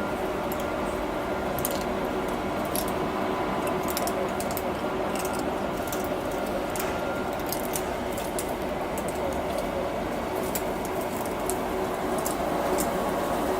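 A cat eating: scattered small wet clicks of chewing and licking over a steady background hum.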